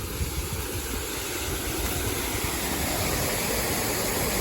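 Steady rush of water pouring into a canal as its level fills up.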